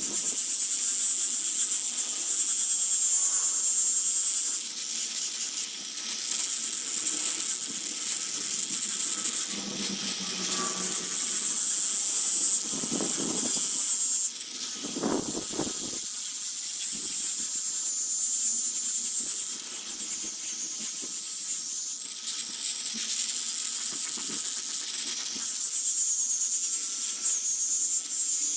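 A small high-speed power tool working wood: a steady high-pitched whine with hiss that dips and shifts in pitch as the load on it changes.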